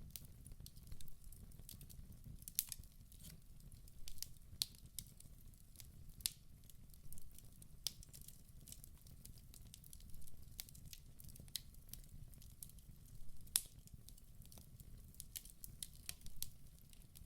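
Wood fire burning in a fireplace, crackling and popping irregularly over a low steady rumble of the flames, with a few sharper pops standing out.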